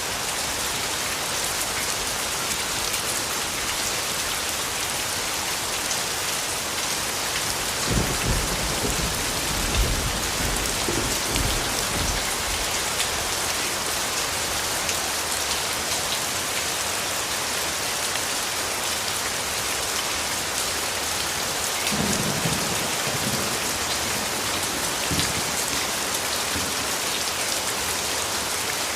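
Steady rain falling, with low rumbles of thunder about eight seconds in and again about twenty-two seconds in.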